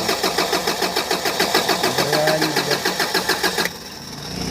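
Diesel engine of a Kia Bongo III cranking on the starter motor without firing: an even chugging of about six strokes a second, which cuts off abruptly near the end. It is a hard start that the mechanics put down to strong injector back-leak, so the engine cannot build fuel pressure.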